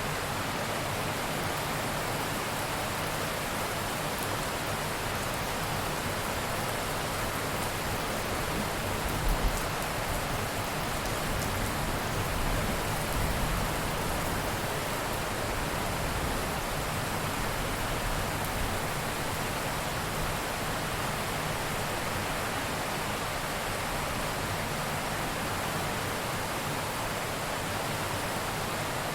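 Steady rain, with a low rumble of thunder about nine seconds in and another a few seconds later.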